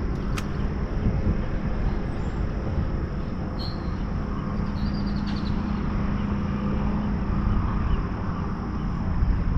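Wind buffeting the microphone: a steady low rumble, with a couple of faint high chirps in the middle.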